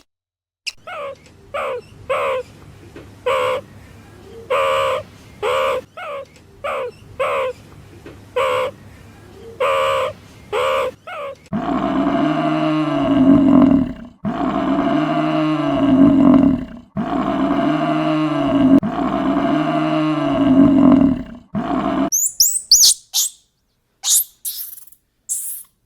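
Animal calls in three runs: a quick series of short calls, about two a second; then four long, loud, low calls whose pitch arches; then a flurry of high, fast chirps near the end.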